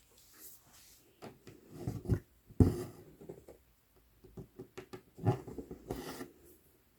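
Cross-stitching on Aida cloth: a needle poking through the fabric and embroidery floss drawn through it, in irregular soft taps and rasping pulls.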